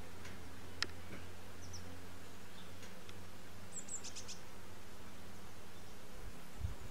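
Outdoor background hiss with a few short, high bird chirps: a pair about two seconds in and a quick run of four or five about four seconds in. A sharp click shortly before one second in and a low thump near the end.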